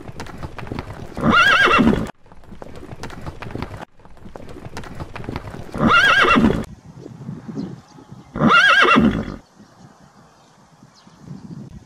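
Horses neighing three times, each whinny under a second long, over a background of hoofbeats.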